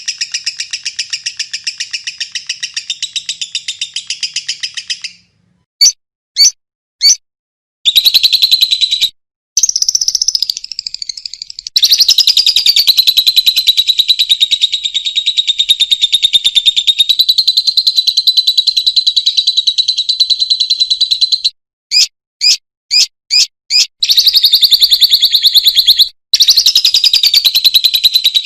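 Lovebird chattering in long, very rapid runs of high repeated notes (the 'ngekek' trill). The runs break off abruptly into silence, with a few single sharp chirps between them.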